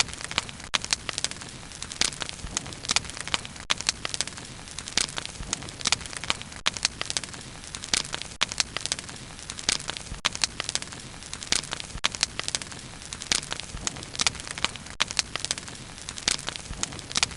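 Wood fire crackling and popping steadily, with frequent irregular sharp snaps over a soft low rumble of the flames.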